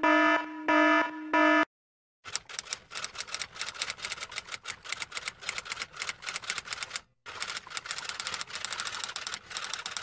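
Alarm clock beeping in a few short, pulsing buzzes that stop about 1.7 seconds in. After a brief silence comes a typewriter's rapid, uneven key clacking, which pauses briefly around the 7-second mark.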